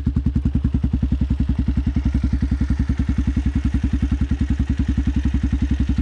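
Forte FT200GY motorcycle's single-cylinder engine idling steadily through an aftermarket straight-through muffler, an even, bass-heavy beat of about twelve pulses a second.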